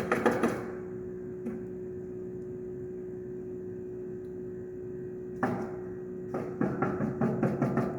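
Rapid runs of sharp knocks from roofers nailing shingles: a quick burst at the start, then more runs from about five and a half seconds on, over a steady hum.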